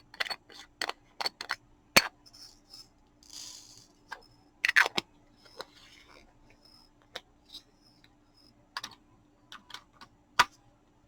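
Scattered sharp clicks and taps of small plastic diamond painting supplies being handled, with a brief rattle about three and a half seconds in, over a faint steady hum.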